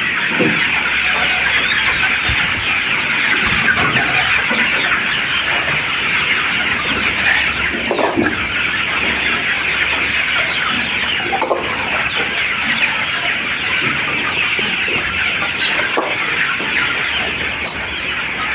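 A large flock of broiler chicks peeping together in a shed, a dense and steady chorus of high chirps, with a few short knocks here and there.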